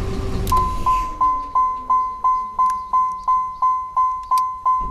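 Dashboard warning chime of a 1991 GMC Sonoma pickup, a single-pitch electronic ding repeating about three times a second, starting about half a second in. It is the chime that sounds with the engine just switched off; underneath, a faint hum slowly falls in pitch and fades.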